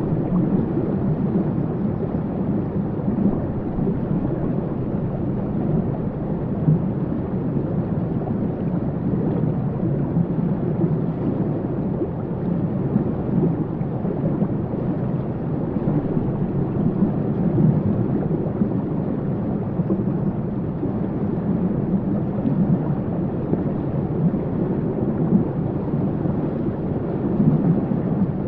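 Waterfall rushing: a steady, deep rumble of falling water, unbroken throughout.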